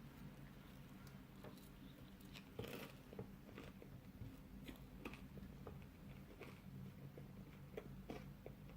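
Faint chewing of pizza: soft, irregular mouth clicks and small crunches over a low steady hum.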